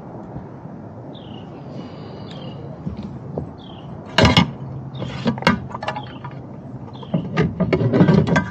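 Sharp knocks and clatter from a freshly caught bass being handled and laid out on a kayak: one loud knock about halfway through, then a few more, and a burst near the end. A bird calls a short falling chirp about once a second through it.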